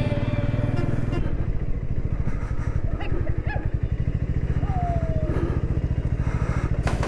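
Motorcycle engine running steadily while riding on the highway, its firing a fast low pulsing, with a few faint brief tones over it midway.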